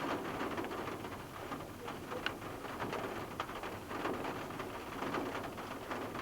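Heavy rain falling, a dense, irregular patter of drops.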